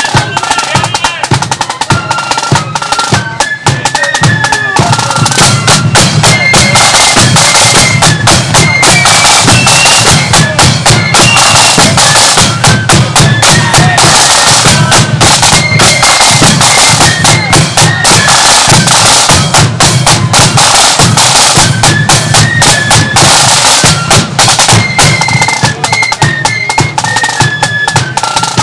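Marching flute band playing a tune: a high flute melody over rapid snare drumming and a steady bass drum beat, growing louder about five seconds in.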